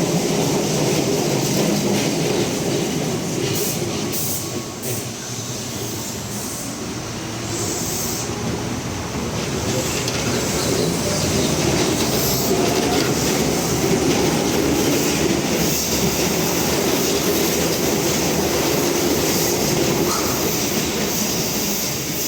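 Keihan electric commuter train running on the rails, heard from on board: a steady rumble of wheels on track. About four seconds in a whine starts and rises in pitch over several seconds, and there are a few brief high-pitched squeals.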